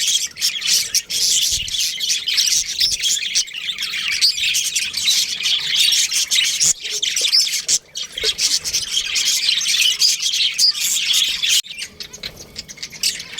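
A flock of budgerigars chattering and chirping continuously, many birds calling over one another in a dense, rapid warble.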